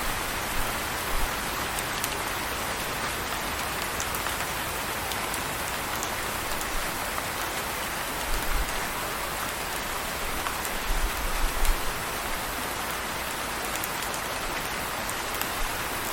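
Steady rain falling, an even hiss with scattered individual drop ticks. A few brief low rumbles sound about halfway through.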